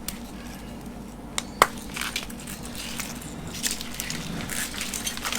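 Hands working at an O2 sensor's plastic wiring connector on an engine harness: two sharp plastic clicks about a second and a half in, then scraping and rustling as the connector, glued in from the factory, is worked at.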